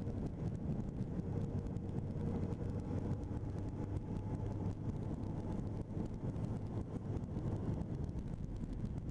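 1985 Honda CB650SC Nighthawk's air-cooled inline-four engine running steadily, a low even hum with no change in pitch.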